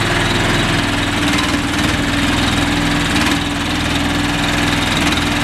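Engine of a remote-controlled shed-moving buggy running steadily and loudly.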